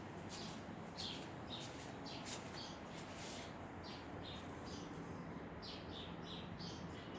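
Small birds chirping: many short, high chirps, a few each second, over a faint steady background hum.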